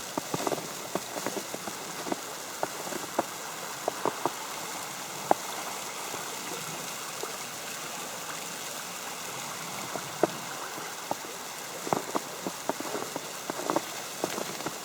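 Snow falling on an umbrella: irregular light ticks and taps over a steady hiss, coming in small flurries.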